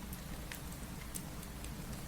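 Steady rain mixed with a crackling fireplace: a few sharp pops and ticks scattered over an even hiss and a low, steady rumble.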